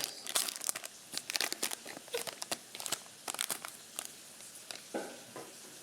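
Plastic wrapping and foil card packs crinkling and tearing as a blaster box of football trading cards is opened: a quick run of sharp crackles that thins out after about four seconds.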